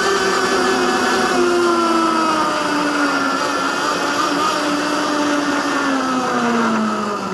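Electric dirt bike's mid-drive motor whining under way, its pitch falling slowly as the bike slows, over a steady rushing noise.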